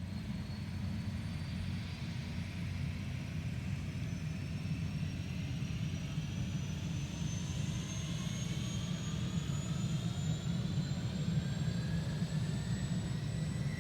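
Helicopter coming in to land: a steady low rumble with a thin whine that rises slowly in pitch.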